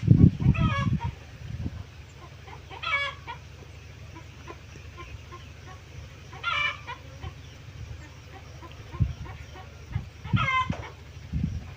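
Chickens clucking, four short calls a few seconds apart, over a steady low hum, with low thumps near the start and again near the end.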